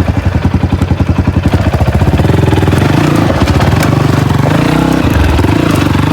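Dirt bike engine running hard with a fast, even beat. About two seconds in the revs rise and the note smooths out.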